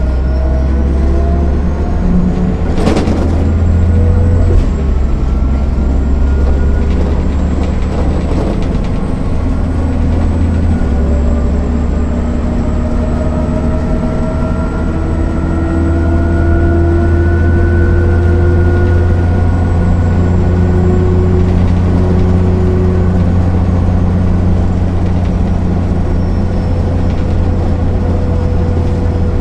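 MAN NL 262 city bus's diesel engine running while the bus is driven, with a ZF 5 HP 600 automatic gearbox; its note climbs slowly in pitch through the middle as the bus pulls away and gathers speed. A sharp knock about three seconds in.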